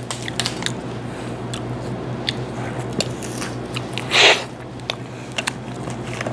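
Crab shell being cracked apart by hand and bitten into, with scattered small crackles and clicks. One louder, longer crunch comes about four seconds in as the shell is bitten.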